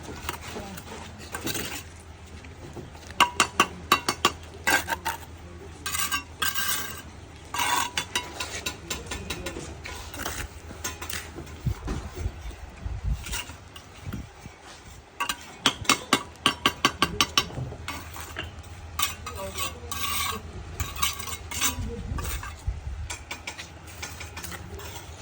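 Metal hand tools tapping and scraping in quick runs of sharp clinks, over a steady low hum.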